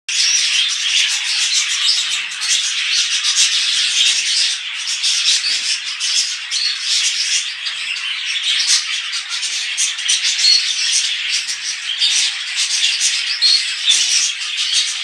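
Budgerigars giving a dense, raspy chatter with short chirps throughout.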